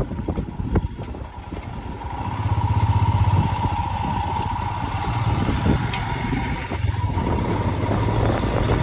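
A vehicle engine running steadily, louder from about two seconds in, with a steady whine alongside.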